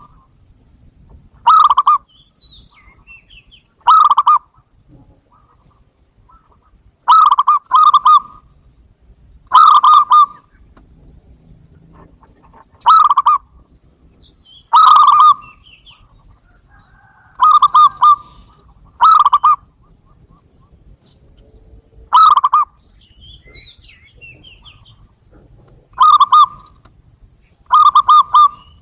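Zebra dove (perkutut) calls played as a lure: short, loud cooing phrases, about a dozen of them, each under a second and repeating every two to three seconds. Faint high chirps come between them.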